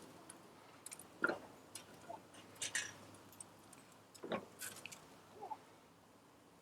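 Faint, scattered clicks and small knocks from handling, about five of them spread a second or so apart.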